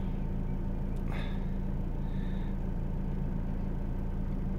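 Vauxhall Insignia's engine idling, a steady low hum heard from inside the cabin.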